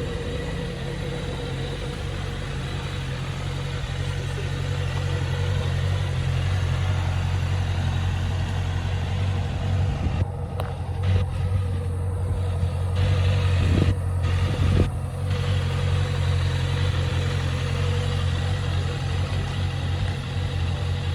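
Honda CBR650F's 649 cc inline-four engine idling steadily, with a few brief louder moments past the middle.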